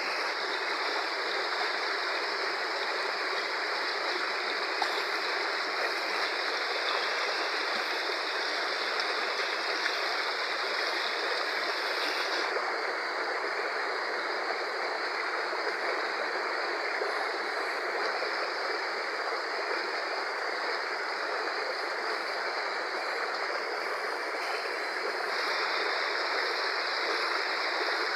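Fast-flowing river water rushing steadily, with no break or change in loudness.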